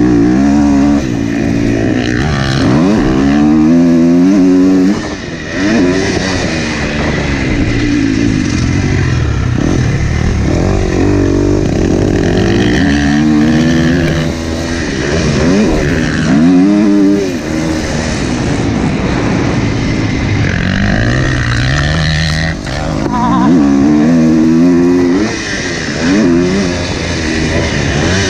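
Husqvarna 250F four-stroke motocross bike engine running on the track, its pitch climbing and dropping again and again as the throttle is opened and rolled off.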